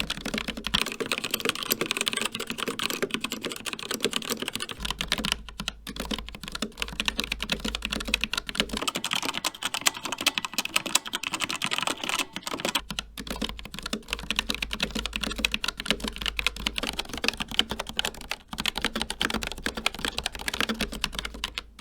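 Steady fast typing on mechanical keyboards with linear switches, a dense run of key clicks and clacks. It starts on a CZC Dwarf with Kailh Red switches, changes a little before halfway to a Rapture X-Ray with Outer Red switches, and about three quarters through to an Asus Claymore II with ROG RX Red switches.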